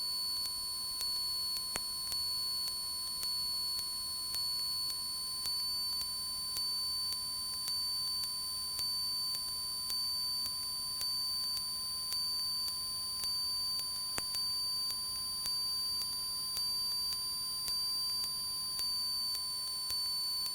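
Faint, steady high-pitched electronic tones with a soft pulse about once a second. They replace the cockpit audio abruptly and cut off just as suddenly.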